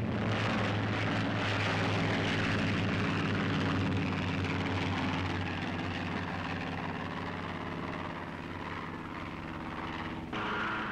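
Piston engines of Curtiss P-40 fighter planes running at high power during a carrier takeoff, a steady propeller drone. About ten seconds in the sound cuts abruptly to another, similar engine drone.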